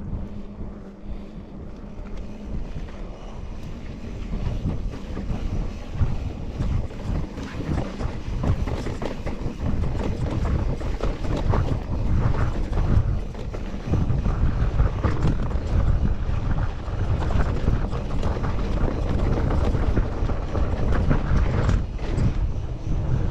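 Wind buffeting the microphone of a bicycle ride, with rattles and knocks from rolling over rough ground. It grows louder over the first six seconds or so and then stays loud.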